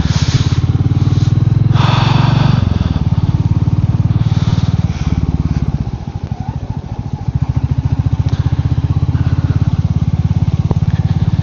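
Royal Enfield Meteor 350's single-cylinder engine running under way, a steady low beat. It eases off about six seconds in, then pulls again, with a brief rush of noise about two seconds in.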